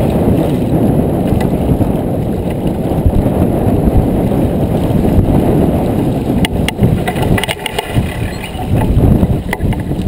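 Wind buffeting the microphone on a J24 sailboat under way, with water rushing along the hull as a loud, steady rumble. A few sharp clicks and a light rattle of gear come about six to seven seconds in.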